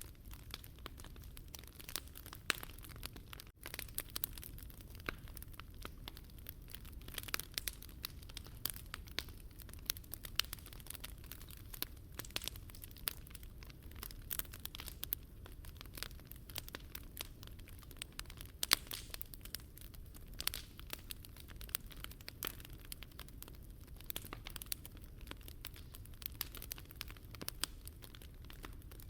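Wood fire crackling, with frequent irregular sharp pops and snaps over a low steady rumble; one louder pop a little past halfway.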